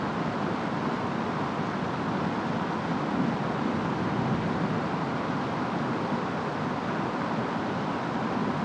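Steady rainstorm: rain falling with wind, an even rushing noise without a distinct thunderclap.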